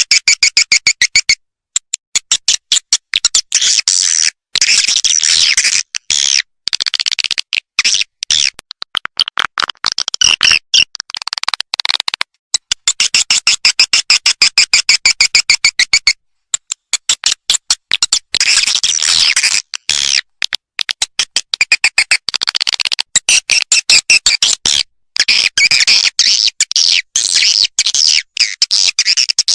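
Swiftlet calling sound: a loud, dense twittering of rapid high chirps in runs, broken by short gaps. It is a recorded lure call, played to draw edible-nest swiftlets into a swiftlet house.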